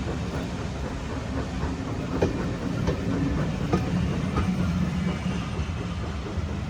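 Train running on the rails: a steady low rumble with wheels clicking over rail joints about once every 0.7 seconds.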